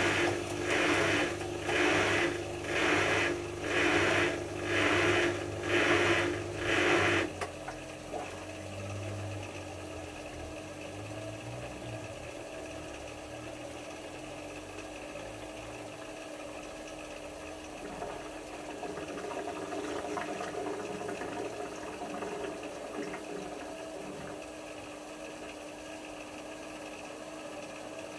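Hotpoint HF8B593 front-loading washing machine in its rinse-and-spin stage: a loud surging about once a second cuts off abruptly about seven seconds in, leaving a quieter steady hum.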